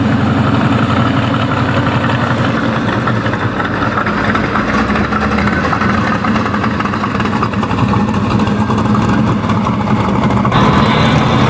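Car engine idling steadily with a rapid, even exhaust pulse. The sound changes abruptly about ten and a half seconds in.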